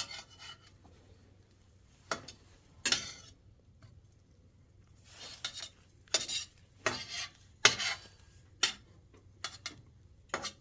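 Metal utensil scraping and tapping against a frying pan in a dozen short, irregular strokes, working food so it doesn't stick.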